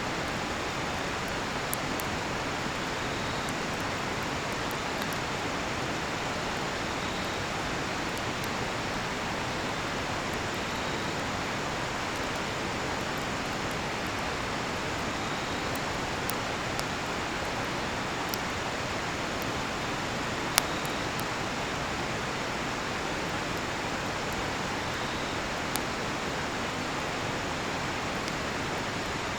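A steady rush of river water, with a cedar-wood campfire crackling over it in scattered sharp pops; the loudest pop comes about two-thirds of the way through. A faint cricket chirp repeats about every two seconds.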